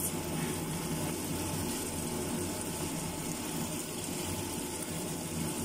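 Saucy stir-fry of mushrooms and sardines simmering and sizzling in a wok, a steady hiss.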